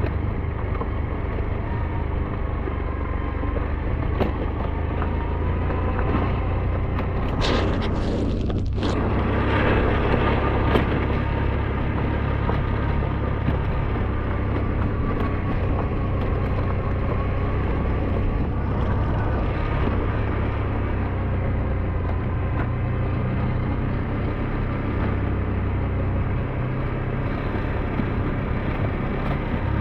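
SYM NH T 200 motorbike engine running steadily under way, with wind and road noise on the microphone. A brief whoosh about eight seconds in.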